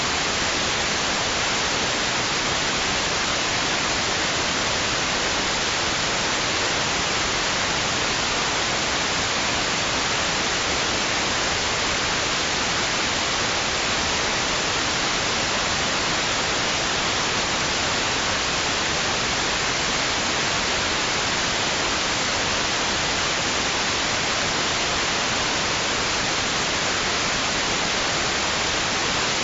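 Steady white noise: an even, unbroken hiss that does not change in level or character.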